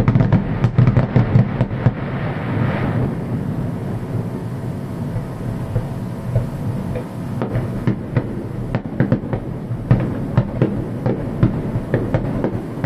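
Aerial fireworks going off in quick succession: many sharp bangs and crackles over a continuous low rumble. A hissing crackle runs through the first few seconds, and the bangs come thicker in the second half.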